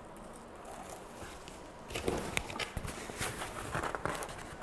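Hands working a stuck item free from its packaging. It is quiet at first, then from about two seconds in comes a quick run of light clicks, taps and rustles.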